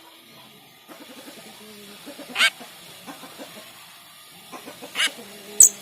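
Jalak rio-rio starling calling: a steady run of low, busy chatter, broken by three loud, sharp calls about two and a half seconds in, at five seconds and just before the end, the last the loudest.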